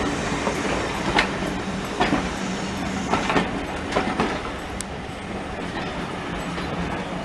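Heritage railway train running along the track: a steady rumble with a faint low hum, broken by irregular clicks and knocks from the wheels on the rails.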